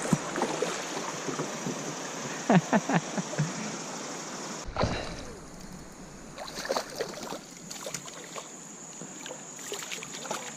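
River water rushing steadily around a kayak below a small rapid, with several short knocks and clicks from the boat and fishing gear in the second half.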